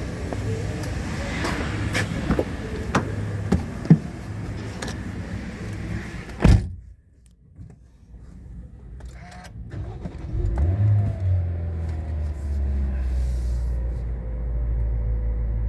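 Clicks and knocks, then a loud thump about six and a half seconds in. About ten seconds in, the Toyota 1NZ-FE 1.5-litre four-cylinder petrol engine starts, flares briefly and settles into a steady idle, its pitch easing slightly downward as the fast idle comes down.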